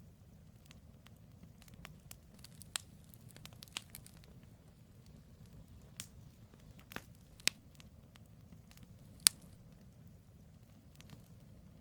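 Wood campfire burning: scattered sharp crackles and pops over a low, steady rumble. The loudest pop comes about nine seconds in.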